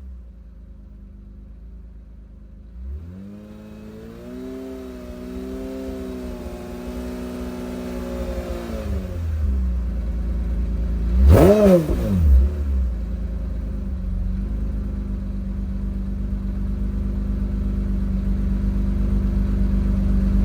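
Toyota 2GR-FE V6 engine in an MR2 idling, then revved up and held for about five seconds before dropping back. About eleven seconds in it takes one quick sharp blip of the throttle, its loudest moment, then settles to a steady idle.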